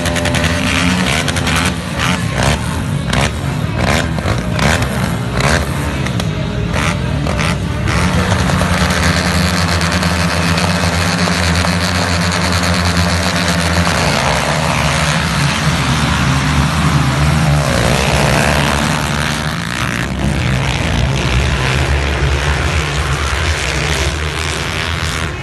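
A pack of motocross bikes at full throttle, many engines running together. The revs rise and fall in quick, choppy bursts for the first several seconds, then merge into a dense, continuous din of engines.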